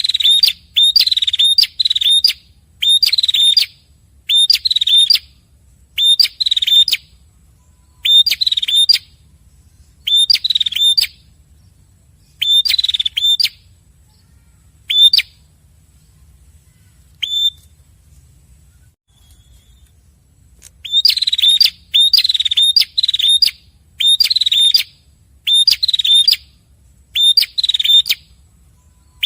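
Red-headed prenjak, male and female, calling back and forth in a duet: loud, sharp, high chirping phrases repeated every second or two, with a pause of a few seconds past the middle.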